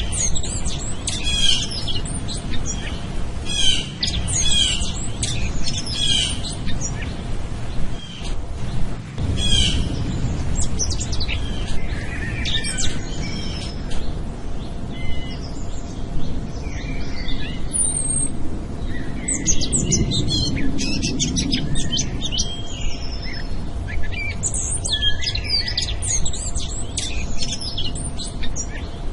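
Many small birds chirping and trilling in quick overlapping calls, over a steady low background noise that swells twice.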